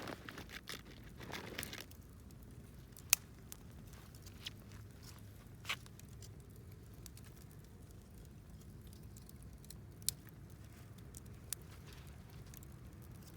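Wood fire crackling, with a few sharp pops several seconds apart. A brief patch of rustling and crunching comes at the start.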